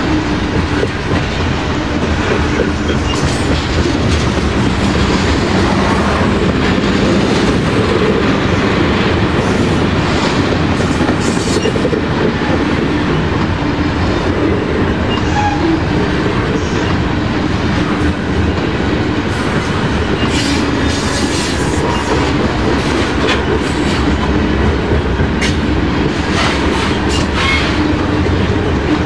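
Railcars of a passing train rolling by at steady speed, a continuous loud rumble with the wheels clacking over the rail joints.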